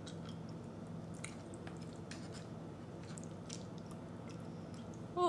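Soft, wet chewing and mouth sounds from eating creamy linguine alfredo, with faint scattered clicks, over a steady low room hum. Right at the end comes a short, loud vocal sound that falls in pitch.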